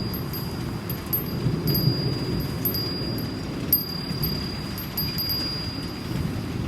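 A Japanese wind chime ringing one high, clear note, struck again and again in an uneven rhythm, over the steady low rush of a rainstorm.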